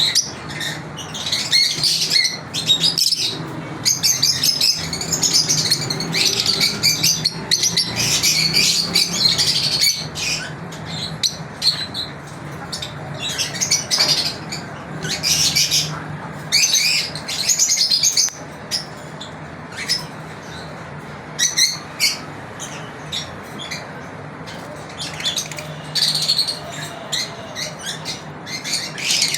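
Lovebirds chirping with shrill, high calls. The calls run almost without a break for the first ten seconds or so, then come in shorter bursts with brief pauses between them.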